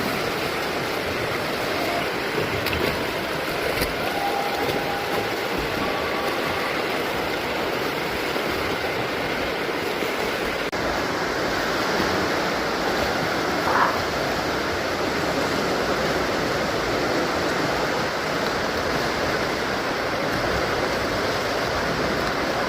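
Steady churning and splashing of swimming-pool water, an even noise with a slight surge about 14 seconds in.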